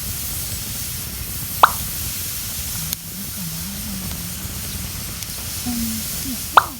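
Wood campfire burning with a steady low rush, and two sharp pops from the burning wood, one about a second and a half in and one near the end.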